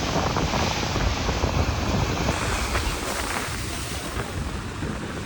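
Strong wind buffeting the microphone, over the steady wash of ocean surf against rocky sea cliffs; the gusts ease a little in the second half.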